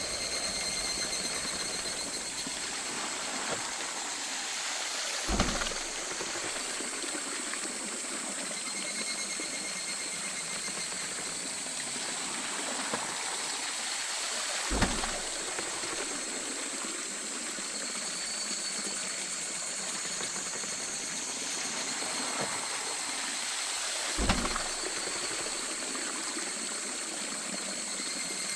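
Water flowing and splashing at a traditional waterwheel, with a dull thump about every nine and a half seconds, three in all.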